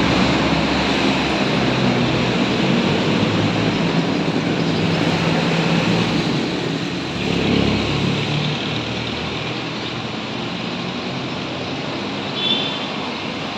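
Street traffic with vehicle engines running and passing, one swelling about seven seconds in, over a dense, continuous chatter of a huge flock of swallows gathering to roost. A short high tone sounds briefly near the end.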